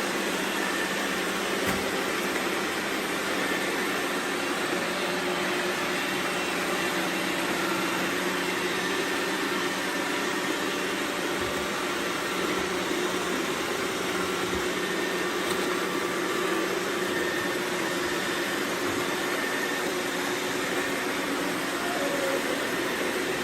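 Robot vacuum cleaners running: a steady whirring of suction fans and brush motors, with a few faint steady hums.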